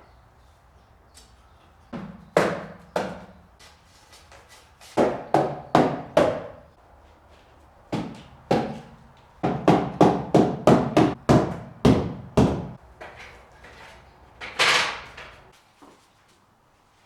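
Hammering: about twenty sharp blows in uneven runs, the quickest run around three blows a second. A short rasping noise follows near the end.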